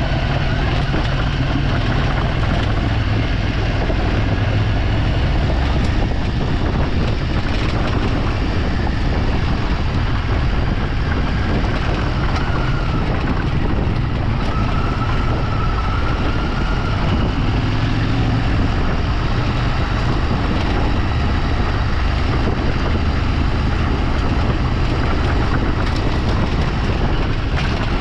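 A vehicle on the move heard from on board, with engine and wind and road noise in a steady, loud rumble. The engine note rises and falls slightly around the middle.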